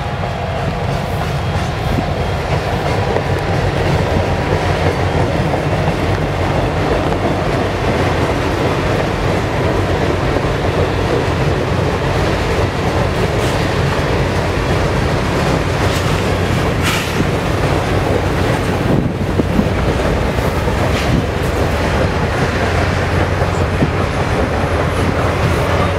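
Freight cars of the Canadian Pacific Holiday Train rolling steadily past close by, steel wheels running on the rails.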